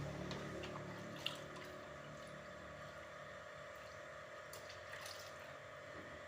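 Faint water dripping and trickling with small scattered clicks, over a steady low hum that drops away about a second and a half in.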